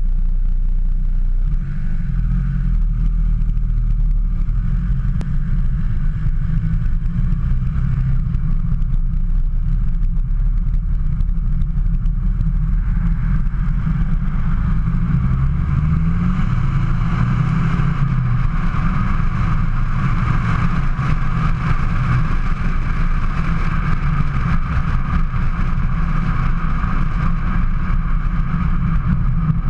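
Remapped Skoda Fabia vRS 1.9 TDI diesel engine and exhaust drumming low and steady under heavy load at low road speed, the way it is driven to make it smoke. A hiss grows louder about halfway through.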